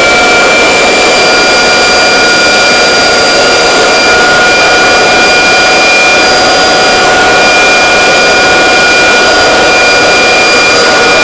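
Vacuum cleaner motor running steadily at full speed, a loud rushing of air with a constant high whine.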